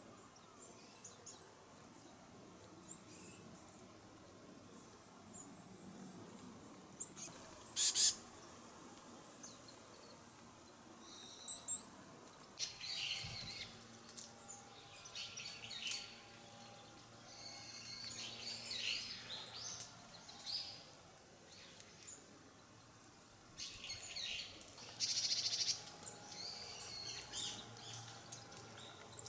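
Small wild birds giving short, high chirping calls in scattered bursts, loudest about eight seconds in and again near the end.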